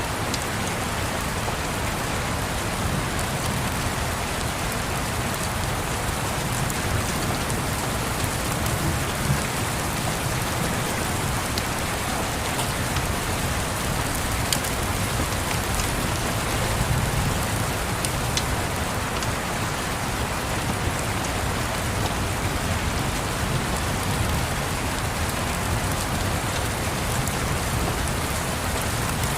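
Steady rain, a dense even hiss, with a low rumble underneath and a few faint sharp ticks scattered through.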